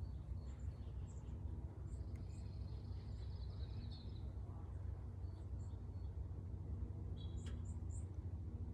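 Small songbirds chirping, one giving a trill for about two seconds, over a steady low machine rumble from nearby construction work.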